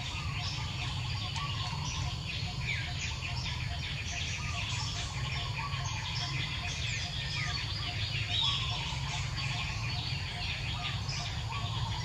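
Birds chirping and calling in short rising and falling notes, with a soft note repeating a couple of times a second, over a steady low rumble.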